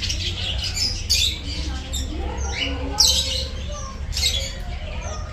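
Many captive birds squawking and chirping at once, with sharp, loud calls about a second in, at three seconds and just after four seconds, over a steady low hum.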